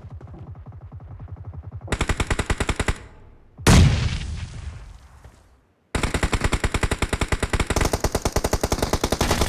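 Shooter-game automatic gunfire: rapid bursts, quieter at first and then loud from about two seconds in. A single heavy bang just under four seconds in dies away over about two seconds, and after a short gap loud automatic fire starts again.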